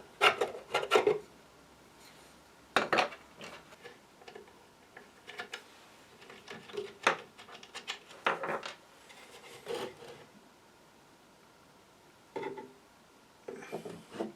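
Hands handling the antique radio's wooden cabinet and loose front-panel parts on a workbench: a series of separate clinks, knocks and short rubs, with a quiet pause about two-thirds of the way through.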